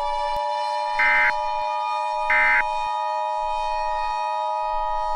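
Emergency Alert System two-tone attention signal sounding steadily over a siren slowly rising in pitch. Three short buzzy digital data bursts come about 1.3 seconds apart in the first half.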